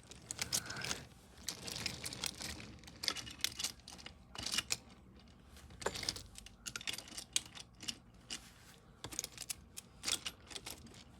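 Irregular light clicks, taps and small rattles of hard objects being handled, with no steady rhythm.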